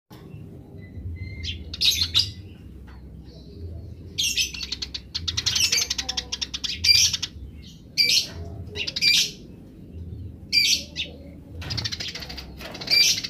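Eurasian tree sparrows giving their 'grece' chatter: bouts of rapid, rattling chirps, some short and some running for a second or two, coming every second or so with short pauses between.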